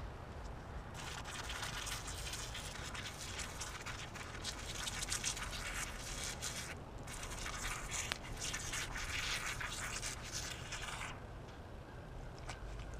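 A cleaning rag being soaked in diluted detail solution and worked by hand: long stretches of scratchy hissing and rustling with small clicks, pausing briefly about a second in, again around seven seconds, and near the end.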